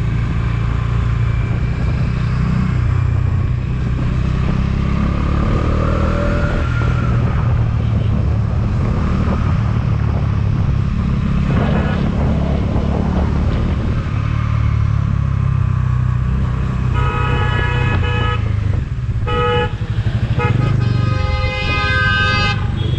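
Motorcycle riding along a road, a steady low rumble of engine and road noise. In the last several seconds a vehicle horn honks several times, short toots and then one longer blast.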